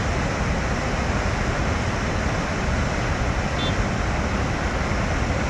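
Steady roar of water rushing out below Kinzua Dam, an even rushing noise with no rise or fall.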